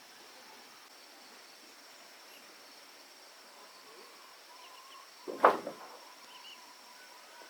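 A single sharp knock about five and a half seconds in, ringing briefly with a couple of smaller knocks right after, over faint steady cricket chirping.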